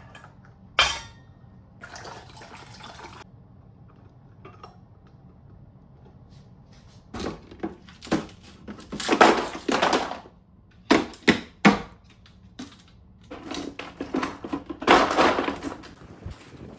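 Kitchen handling sounds: dishes and other items knocked and set down in irregular clicks and clatters, with a few longer noisy stretches of handling.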